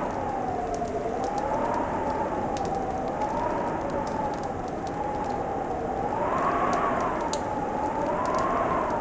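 Wood fire crackling with scattered small pops over a steady hiss. Over it runs a whistling tone that slowly wavers up and down, with a fainter tone below it, like wind howling.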